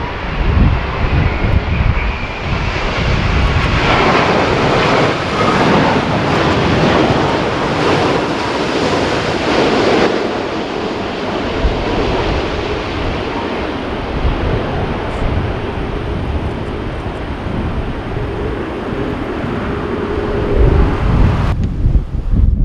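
Boeing 787 airliner's jet engines passing on a landing, loudest for several seconds from about four seconds in, with strong gusty wind buffeting the microphone throughout. The sound changes abruptly near the end.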